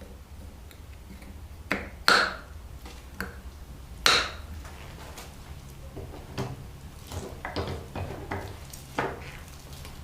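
Hard knocks and taps of something being worked by hand: two loud sharp knocks about two and four seconds in, then a run of lighter taps and clicks.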